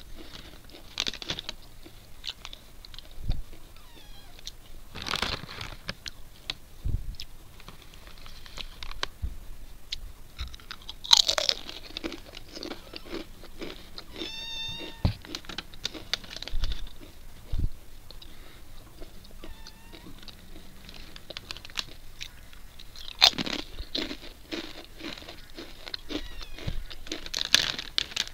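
Close-up crunching and chewing of crisp packaged chips: irregular crunches, some much louder than others.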